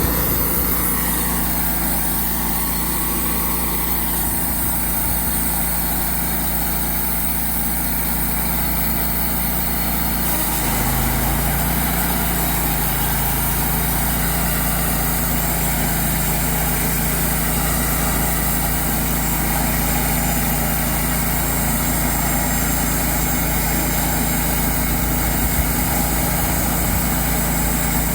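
Engine of a Cook's HD3238 band sawmill running steadily; about ten seconds in its low hum shifts in pitch and gets slightly louder.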